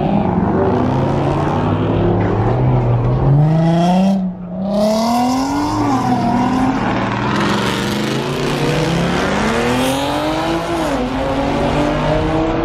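Car engine accelerating hard, its pitch climbing for a couple of seconds and breaking off about four seconds in. It climbs again and drops near ten seconds, with other engines running underneath.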